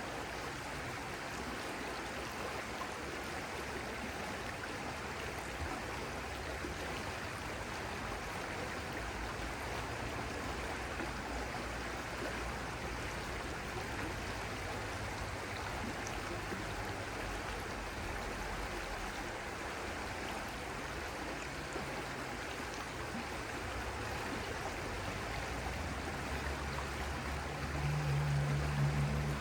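Stream water flowing and rushing steadily. A low hum swells briefly near the end.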